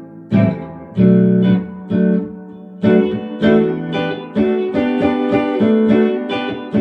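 Palo Escrito electric guitar strummed in barre chords through its pickups, a chord every half second or so at first, then quicker, about three strums a second, from about four seconds in. Its low action makes the barre chords easy to fret.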